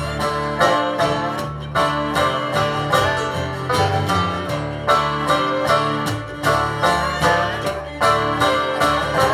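Live acoustic bluegrass-style instrumental break: fast plucked banjo and guitar notes over a steady rhythm, with no singing.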